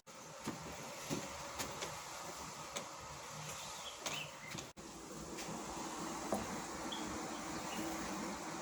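Steady drone of a distant motor, which sounds like a water pump running, with a few faint clicks over it. The hum becomes steadier about halfway through.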